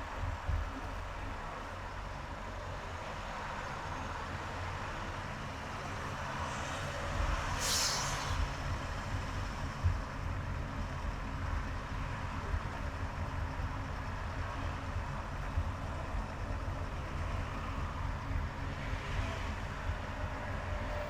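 Car driving in highway traffic: a steady low road and engine rumble. About eight seconds in there is a short sharp hiss, and a single knock follows a couple of seconds later.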